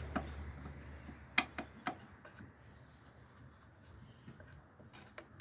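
A few sharp clicks and taps of parts being handled, four in the first two seconds, over a faint low hum that dies away about two seconds in.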